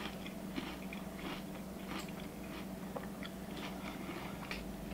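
A person chewing a mouthful of crunchy cereal in milk, close to the microphone: soft, irregular crunches.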